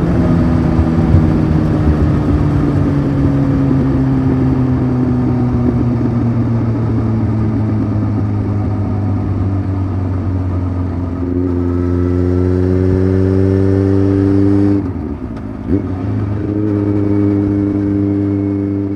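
Honda CBF 600's inline-four engine running through a titanium aftermarket exhaust, its note falling steadily as the bike slows for about ten seconds, then holding steady. About fifteen seconds in the sound dips and the engine gives a quick throttle blip, as in a gear change, then settles back to a steady run.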